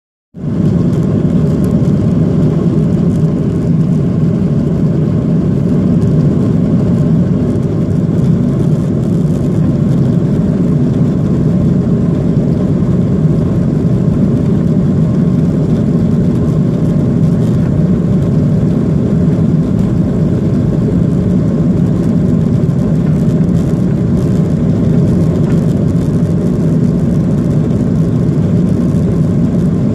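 Boeing 737-800's CFM56-7B jet engines running loud and steady, heard inside the passenger cabin, with a faint steady whine above the low rumble.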